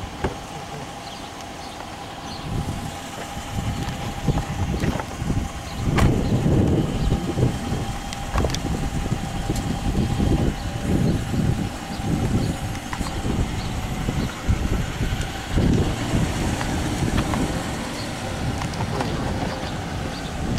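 Police patrol car idling close by, with an uneven low rumble on the camera microphone and a few sharp clicks.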